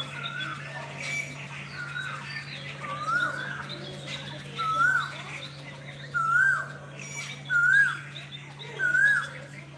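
A bird calling over and over, a short whistled note that rises, dips and rises again, roughly once a second. The calls grow louder towards the end, over fainter chirping of other birds and a steady low hum.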